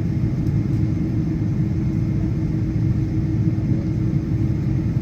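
Steady low rumble inside a Boeing 777's cabin with a steady hum over it. The engines are at low power, with no change in level or pitch.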